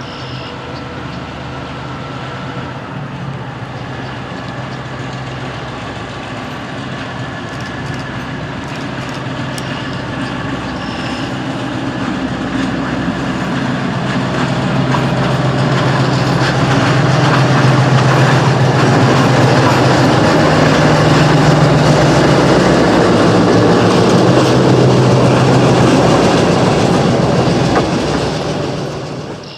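EMD SW9 switcher locomotive's V12 diesel engine running as the locomotive rolls along the track, with wheel and rail noise; the sound grows steadily louder toward the middle and falls away sharply near the end.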